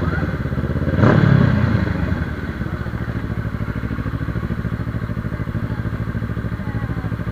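Motorcycle engine heard from the rider's seat: it revs up briefly about a second in, then settles to a steady low-speed putter with an even, rapid firing pulse.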